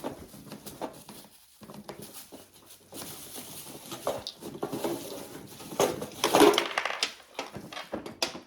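Irregular rustling, scraping and knocking of small objects being handled, unpacked and set down, busiest a few seconds in.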